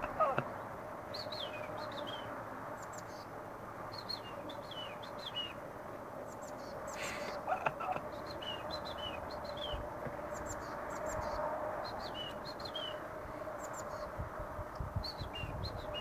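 A small songbird sings short phrases of quick, high, falling chirps, repeated every three to four seconds over a steady low hum. A brief rushing noise comes about halfway through, and low rumbles near the end.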